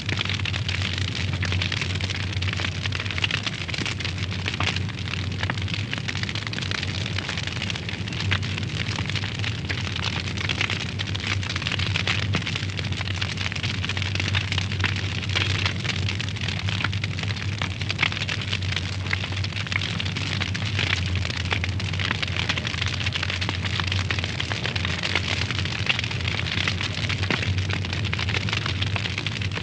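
Wood fire burning in a fireplace, crackling steadily with frequent sharp pops over a low, steady rumble.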